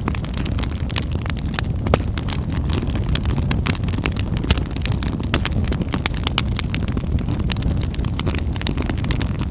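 Wood fire burning in a fireplace: a steady low rush of flames with frequent small crackles and a couple of louder pops near the middle.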